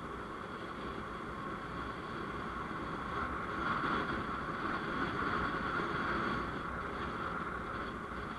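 Steady vehicle road and engine noise while driving, swelling a little in the middle before settling back.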